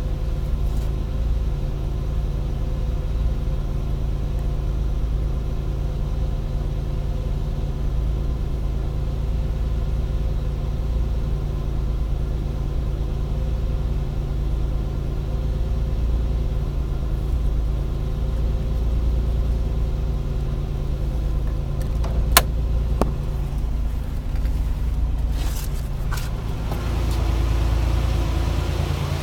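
Chevrolet Citation's engine idling steadily just after a cold start, a constant low rumble. A single sharp click comes a little past the middle, with a few fainter clicks soon after.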